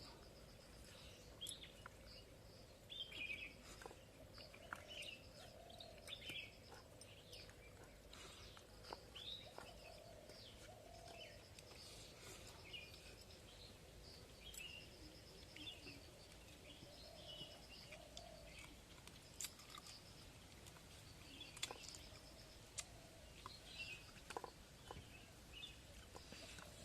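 Faint outdoor ambience of small birds chirping and calling, with a rapid high trill repeating every few seconds and a few light clicks.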